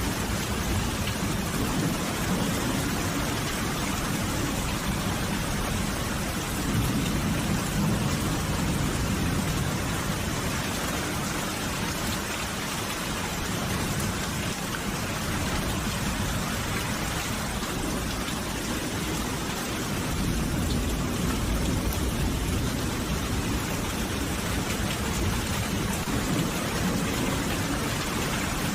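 Steady rain falling, an even hiss of drops, with a low rumble of distant thunder swelling about seven seconds in and again around twenty seconds.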